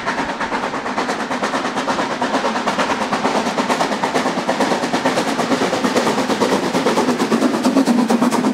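Harz narrow-gauge steam locomotive working hard uphill on the Brocken line, its exhaust giving a fast, even run of sharp beats that grows louder.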